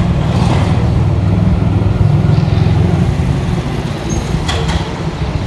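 Strong wind buffeting the microphone: a loud, steady low rumble, with a brief sharp noise about four and a half seconds in.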